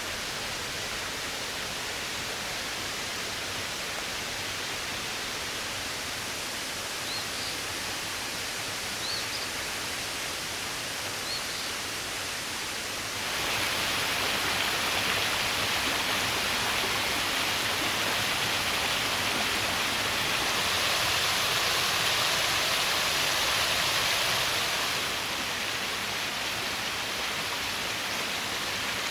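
Small waterfall cascading over a rock ledge under a stone overhang: a steady rush of falling water. About halfway through it jumps louder and brighter, then eases back a little near the end; three faint high chirps come in the first half.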